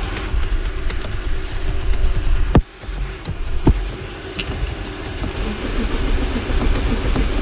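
Car engine being cranked by its starter without catching, a car that won't start. The cranking cuts off suddenly about two and a half seconds in, a couple of sharp clicks follow, and cranking starts again about four seconds in.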